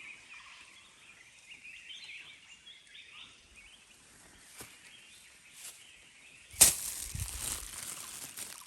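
Small birds chirping faintly in the forest. About two-thirds of the way in comes a sudden sharp noise, the loudest sound here, followed by about two seconds of rustling noise.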